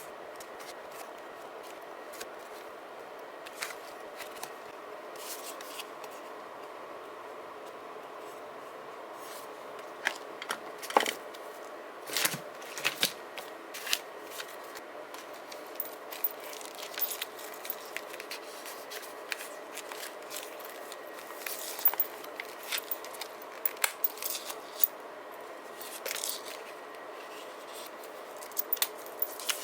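Handling of paper and stickers while journaling: scattered small clicks, taps and brief rustles and scrapes, busier from about a third of the way in, over a faint steady hum.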